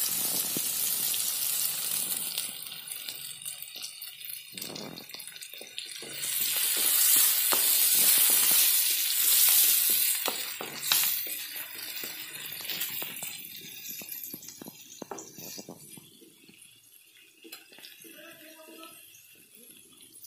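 Green chillies and curry leaves sizzling in hot oil in a steel kadai, stirred with a wooden spatula that scrapes and clicks against the pan. The sizzle swells loudest in the middle and dies down toward the end.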